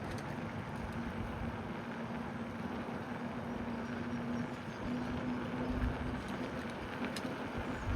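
Steady rushing wind and tyre noise from a moving bicycle, with a low steady hum through most of it and a sharp tick about seven seconds in.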